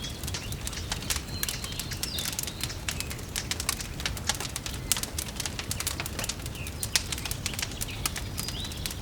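Wood fire crackling with irregular sharp snaps over a low, steady rumble, and a few faint bird chirps now and then.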